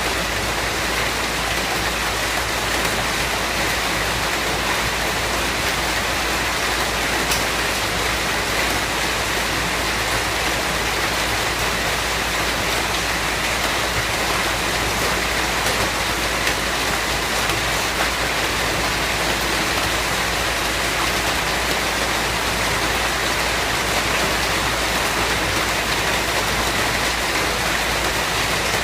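Steady rain: an even, continuous hiss of falling rain with a few faint drop ticks, unchanging throughout.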